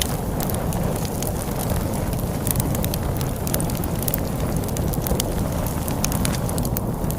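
Wood fire crackling, with frequent sharp pops and snaps scattered irregularly, over a steady low rumble of storm wind.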